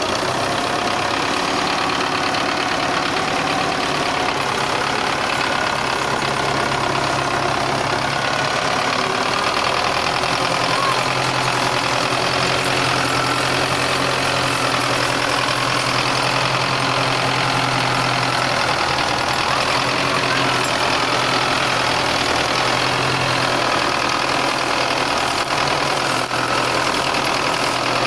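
Russian-made 510 tractor's diesel engine running steadily.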